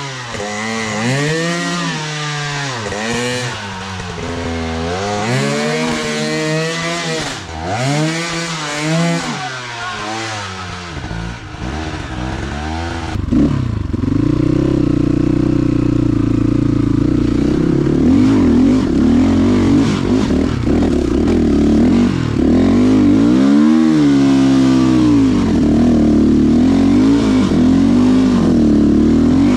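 Motorcycle engine revved repeatedly in short blips, its pitch rising and falling every second or two. About 13 seconds in it gets louder and holds at steady higher revs, with one more rise and fall a little before the end.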